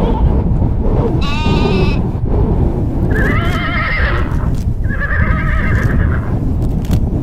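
A farm animal calling three times, each a wavering-pitched cry of about a second, over a steady low rumble.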